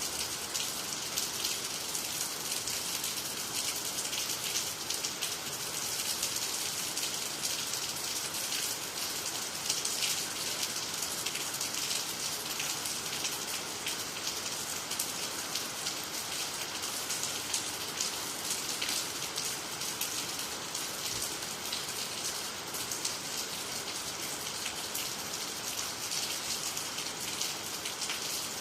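Steady rain falling on water, trees and the ground: an even hiss thick with the patter of individual drops.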